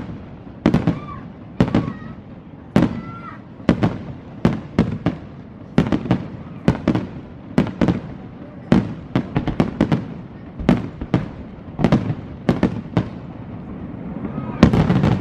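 Fireworks display: a rapid, irregular run of aerial shell bursts, with sharp bangs coming several a second at times. The bursts crowd together into a dense barrage near the end.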